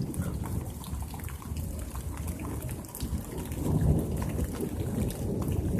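Thunder rumbling low through steady rain, the rumble swelling about four seconds in, with raindrops pattering throughout.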